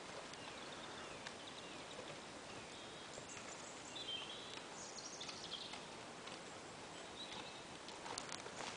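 Faint birdsong over a steady outdoor hiss: scattered high chirps, with a short falling trill about five seconds in. A few sharp clicks near the end.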